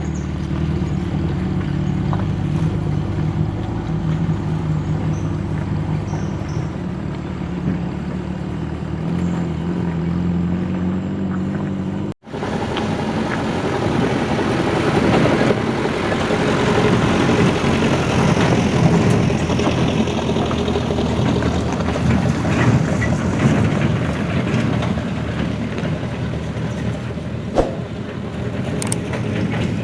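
Heavy diesel truck engine pulling hard up a steep hill in a low gear, with a steady drone. The sound breaks off sharply about twelve seconds in, then comes back rougher and noisier.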